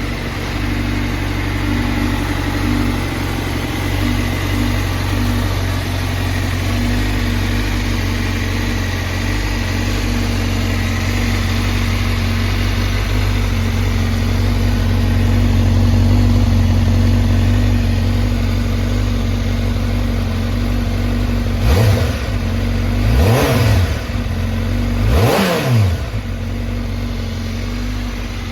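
Honda CBR1000RR-R's inline-four engine idling steadily, then blipped three times in quick succession near the end, each rev rising sharply in pitch and falling straight back to idle.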